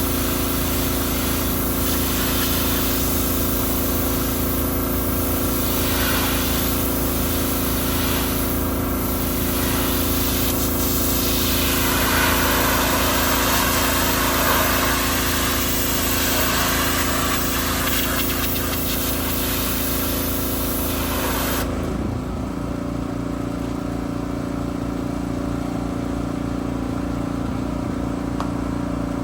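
Gas-engine pressure washer running steadily with the hiss of its high-pressure water spray. About three quarters of the way through the spray hiss cuts off suddenly and the engine keeps running, its pitch shifting slightly.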